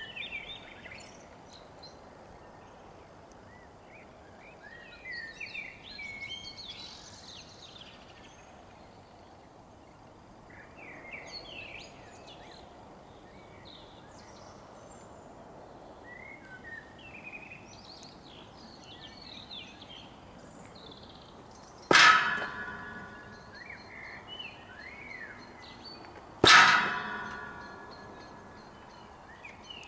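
Birds chirping and calling in short scattered phrases over faint outdoor background noise. Two loud metallic clangs cut in a few seconds apart near the end, each ringing briefly.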